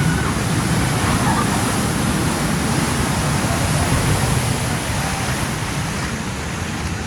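Steady rush of water from a water-park lazy river, with faint voices in the background.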